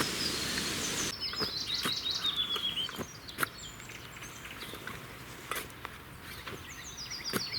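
A steady hiss for about the first second cuts off abruptly. Then a songbird sings a quick series of notes falling in pitch for about two seconds, starting again near the end, with a few sharp clicks in between.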